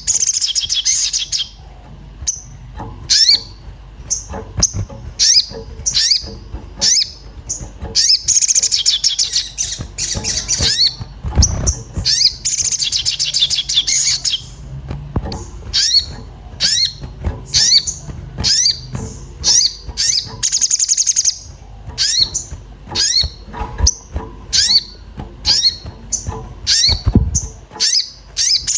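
Sogon bird calling agitatedly: a rapid series of short, sharp 'cuit cuit' chirps that sweep in pitch, breaking twice into longer chattering trills.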